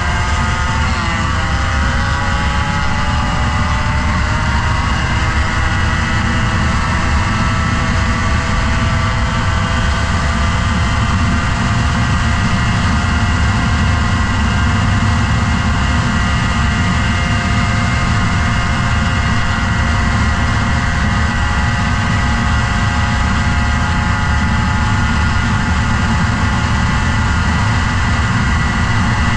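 Motorcycle engine running hard at high, nearly steady revs over a dense low rumble. Its pitch shifts briefly just after the start, then holds.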